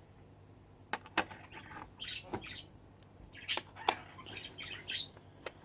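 A small bird chirping in short, scattered calls, with a few sharp clicks in between.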